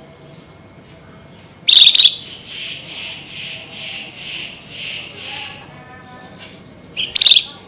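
Flamboyan songbird calling: a very loud, sharp call about two seconds in, then a run of about seven evenly paced buzzy notes, and another loud, sharp call near the end.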